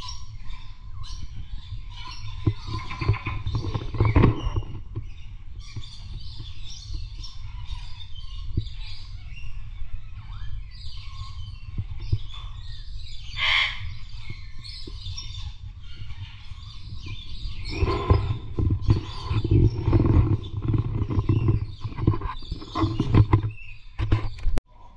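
Many birds chirping and calling together, short high calls overlapping throughout, over a steady low rumble on the microphone.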